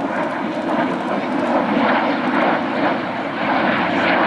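Jet noise of a B-2 Spirit stealth bomber's four turbofan engines as it flies over, a steady, dense rumble.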